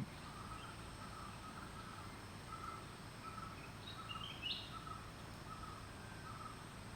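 Faint outdoor ambience with a soft, short animal call repeated about twice a second, and a few higher bird chirps about four seconds in.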